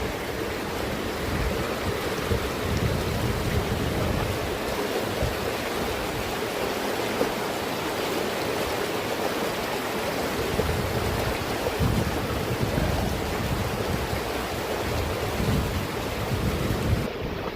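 Steady rush of running mountain water, with wind buffeting the microphone in low gusts now and then.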